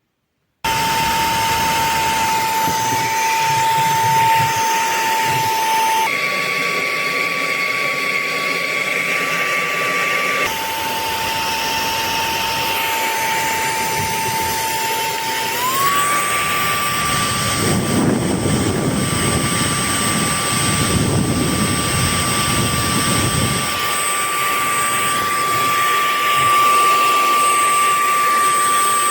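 Cordless handheld vacuum running with a steady high motor whine and rush of air. The whine shifts between two pitches and rises smoothly to a higher speed a little past the middle, with a lower, rougher rush of air for several seconds after.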